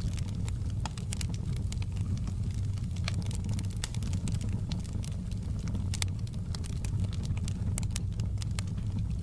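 Campfire burning, with frequent sharp crackles and pops from the wood over a steady low rumble of the flames.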